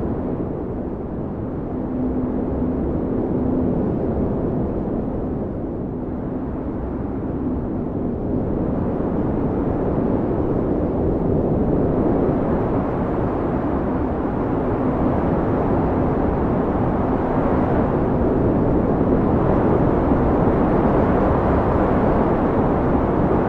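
Blizzard wind: a deep rushing noise that swells and eases in slow gusts, with a faint low howl coming and going.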